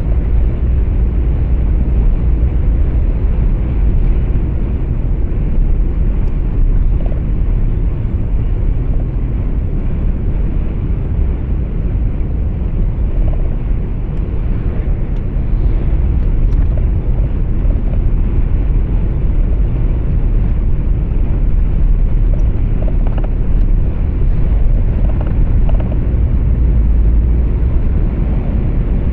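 Steady low rumble of a truck's engine and road noise heard inside the cab, with no change in pitch or level.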